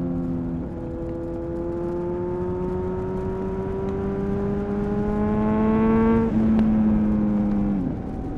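2000 Honda CBR-929RR Fireblade's inline-four through an Erion full racing exhaust, pulling at moderate revs with the note rising steadily for about six seconds while the new clutch is being broken in. A gear change then follows, and the note eases off and falls away near the end.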